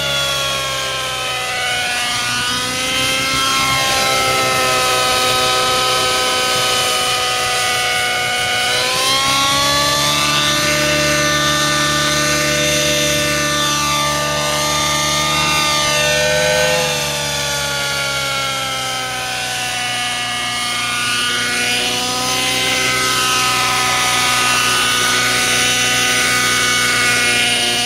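Nitro glow engine and rotor of a 700-size RC helicopter running continuously, its pitch drifting gently up and down. It carries an abnormal noise that the owner is trying to capture.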